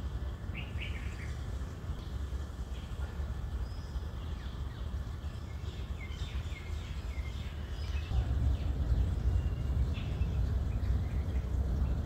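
Small birds chirping now and then: a few short chirps near the start, a cluster in the middle and one more later. Under them runs a steady low rumble that grows louder about eight seconds in.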